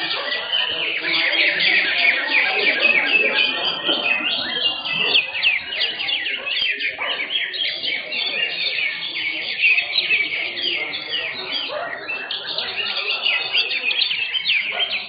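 Several greater green leafbirds (cucak hijau) singing at once in a contest, a dense, unbroken stream of fast, high chirps and trills overlapping one another.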